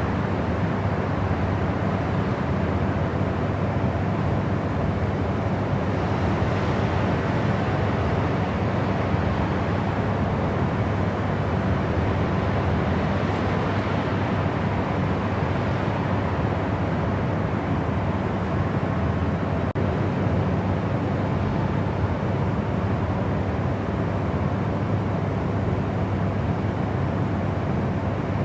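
Steady white noise for sleep: a continuous, even rushing sound with no breaks or events. It is weighted toward the deep end, with little high hiss.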